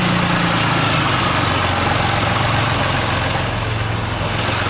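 A vehicle engine running steadily at low revs, its pitch easing down slightly in the first couple of seconds and then holding steady.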